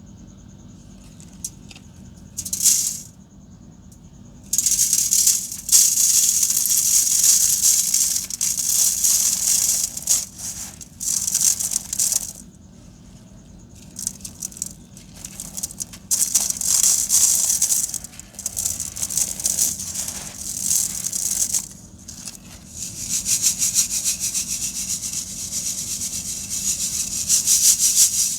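Dry sand-cement chunks being crumbled, a gritty crackling crunch that comes in several long bursts with short pauses between them.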